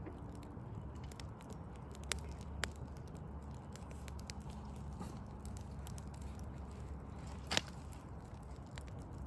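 Wood fire of burning logs crackling with a steady patter of small clicks, and three sharper pops about two, two and a half and seven and a half seconds in. A low steady rumble runs underneath.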